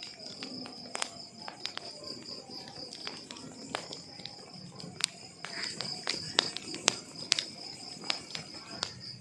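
Wood fire crackling, with irregular sharp pops and snaps of burning logs, several to a second at times, over a soft low rustle. A steady high-pitched tone runs behind it.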